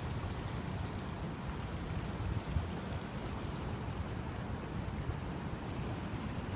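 Wind buffeting the microphone over the steady rush of river water at the river mouth.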